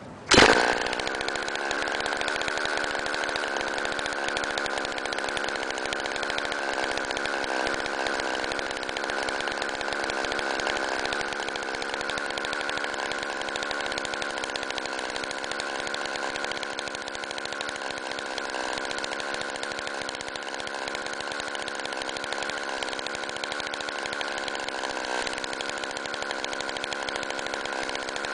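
Go-kart engine with a straight-pipe exhaust starting abruptly about half a second in, then running steadily with only slight rises and falls in speed.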